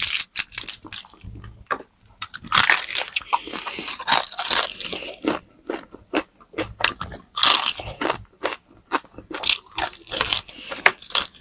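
Close-miked eating: crunchy food being bitten and chewed, a rapid irregular run of loud crisp crunches with a brief pause about two seconds in.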